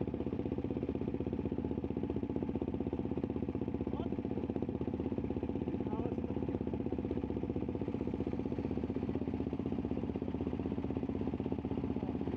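CFMoto 450MT's parallel-twin engine running steadily at one speed, with no revving up or down.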